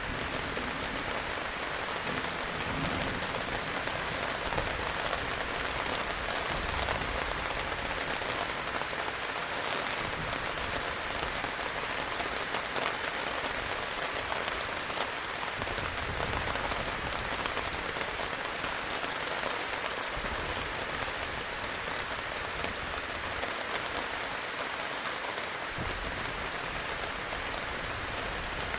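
Heavy rain falling steadily, a dense even hiss of many drops without a break.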